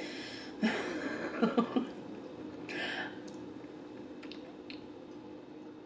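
A woman chewing a bite of food close to the microphone, with wet mouth clicks and smacks. A few soft voiced hums come in the first two seconds, and a brief breath about three seconds in.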